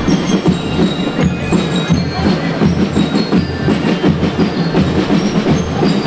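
School band playing: steady drumming under a melody of short, bright bell-like notes from mallet percussion.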